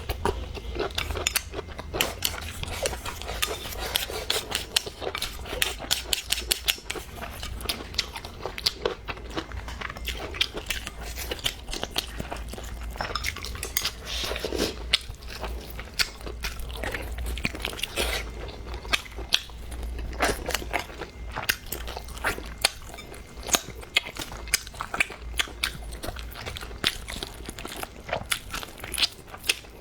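Close-miked mukbang eating: a person chewing and crunching food, with many sharp clicks and taps throughout. A steady low hum runs underneath.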